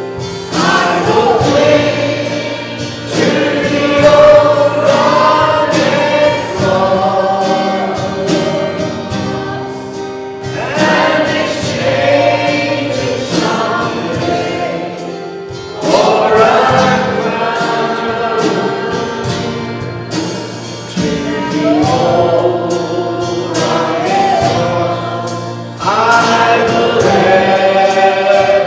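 A choir or congregation singing a gospel hymn with instrumental accompaniment, in phrases that start afresh every few seconds.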